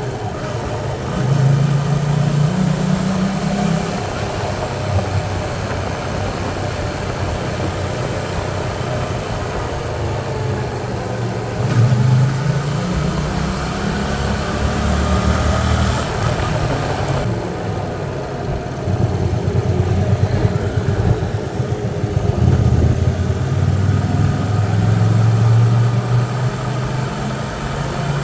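Hyosung Aquila 125's small V-twin engine running on the move, its pitch climbing and dropping several times with the throttle, over a steady hiss of road and wind noise.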